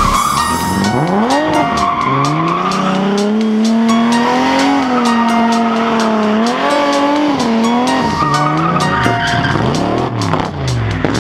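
Drift car engine at high revs, its pitch rising and falling again and again as the throttle is worked through a slide, with tyres squealing.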